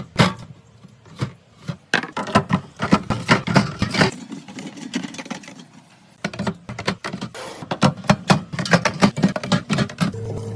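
Groceries and containers being handled while a fridge is restocked: a busy run of clicks, knocks and rustles, quieter for a couple of seconds midway. A steady low hum starts near the end.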